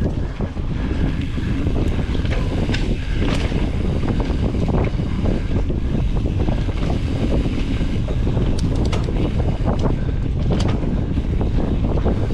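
Wind buffeting the microphone and tyres rolling over a dirt trail as a mountain bike descends at speed, a steady low rumble with scattered clicks and rattles from the bike going over bumps.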